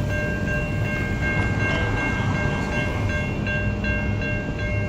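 Railroad crossing bell ringing steadily and rapidly, over the low rumble of an approaching Amtrak passenger train.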